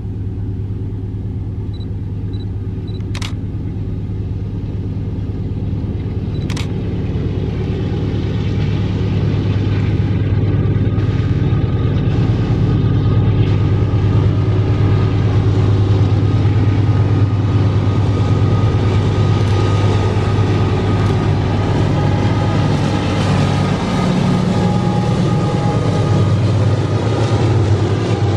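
AC44i and SD80ACe diesel-electric freight locomotives hauling a loaded iron-ore train at speed, their engines working hard with a steady low hum. The sound grows louder through the first half as the locomotives draw near and pass, and then the loaded ore wagons roll by. Two sharp clicks come early on.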